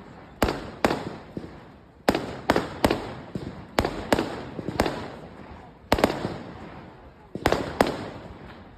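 Fireworks bursting: about a dozen sharp bangs at irregular intervals, some in quick pairs, each trailing off in a rolling echo.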